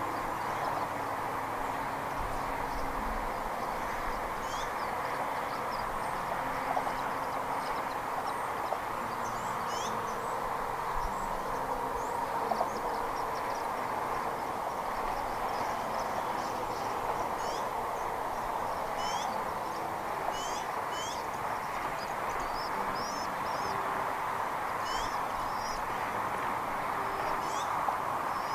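Scattered short, high bird chirps, many of them sweeping, over a steady rushing noise.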